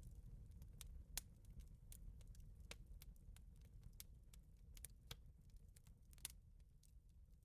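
Wood fire crackling faintly: scattered sharp pops and snaps at irregular intervals over a low steady rumble, with a stronger pop about a second in and another near six seconds.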